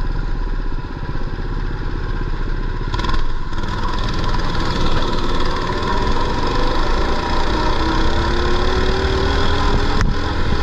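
Mini bike's small engine running under throttle, its pitch climbing slowly over several seconds in the second half.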